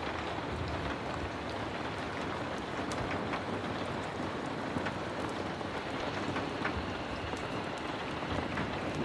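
Heavy rain falling steadily, a dense even hiss with scattered sharp little ticks of drops through it.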